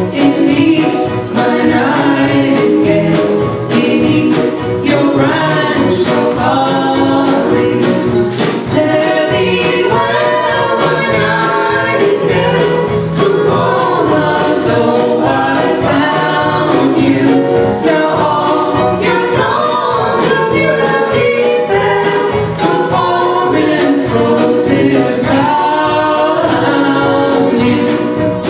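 Several voices singing together in choir-like harmony, a cappella, with no instrument standing out.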